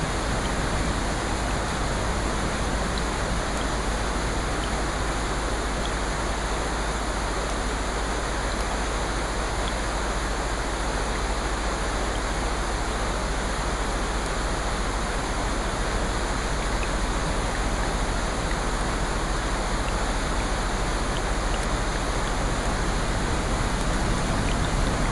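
Steady rain, an even wash of falling water with no pauses or swells.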